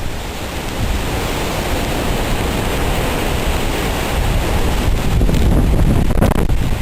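Strong wind from Hurricane Katrina's approach blowing and buffeting the microphone with a heavy low rumble, gusting louder about five seconds in.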